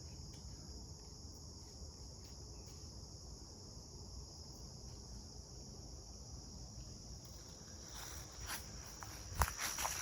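Steady, high-pitched insect chorus in the background, with footsteps on a trail starting about eight seconds in.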